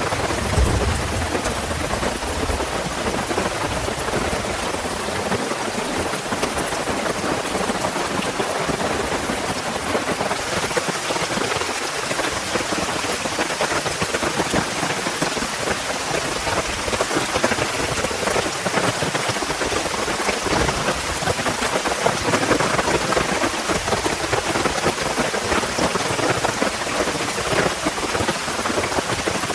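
Heavy rain falling steadily, with a brief low rumble of thunder at the very start.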